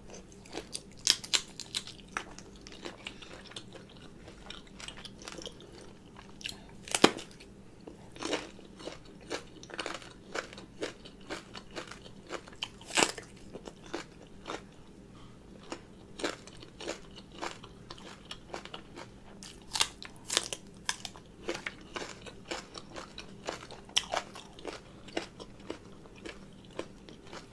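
Close-up chewing and crunching of raw shrimp papaya salad and raw green Thai eggplant, with irregular crisp crunches throughout; the sharpest come about 7 and 13 seconds in.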